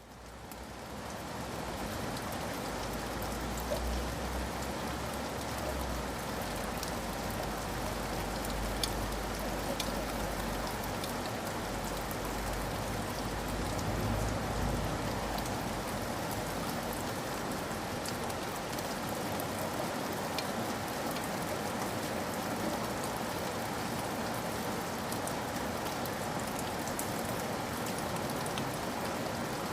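Steady rain falling, fading in from silence at the start, with scattered sharp drip ticks over the even patter. A low rumble sits under it through the first half.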